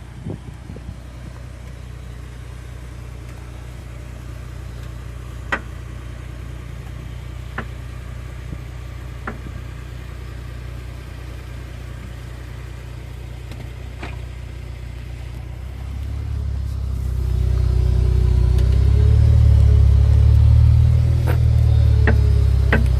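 A 2005 BMW 330ci's straight-six engine runs at a low, steady note while sharp, single knocks come from the car every few seconds, six in all, the loudest about a quarter of the way in. The engine grows louder about two-thirds of the way through. This is the unexplained knock the car makes when turning onto an angled driveway, which several mechanics have failed to find.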